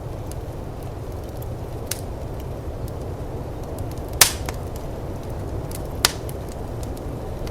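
Firepit crackling, with scattered small ticks and two sharp pops of burning wood about four and six seconds in, over a steady low rumble of snowstorm wind.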